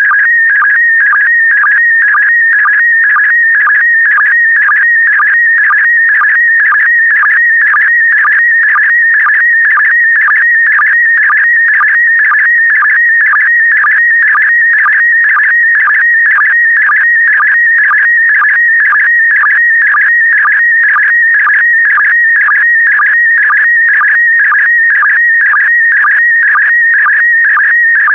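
PD120 slow-scan television (SSTV) signal sending an image line by line: a warbling high tone that shifts in pitch with the picture's brightness, broken by a short sync pulse about twice a second.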